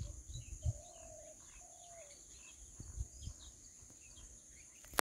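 Small birds chirping and twittering, with two longer, lower whistled calls about a second in, over a steady high hiss and a few low bumps. The sound cuts off abruptly near the end.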